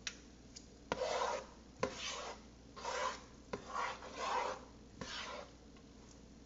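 A spoon scraping and stirring risotto rice around the bottom of a pot, in about six separate strokes roughly a second apart, each starting with a light tap on the pot.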